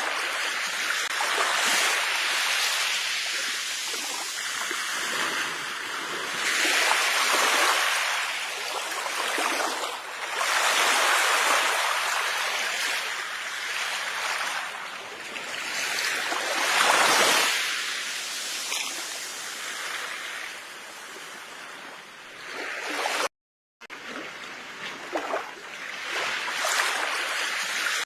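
Sea waves washing onto a shore, the surf swelling and easing in surges every few seconds. The sound cuts out completely for a moment about 23 seconds in, then resumes.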